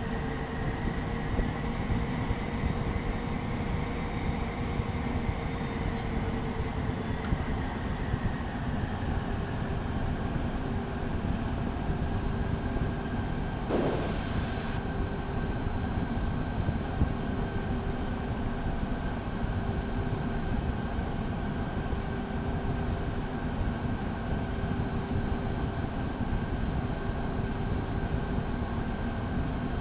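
Beechcraft Premier I's twin turbofan engines running at low power, heard inside the cockpit as a steady hum with a whine that drifts slightly in pitch during the first several seconds. A short burst of noise comes about fourteen seconds in.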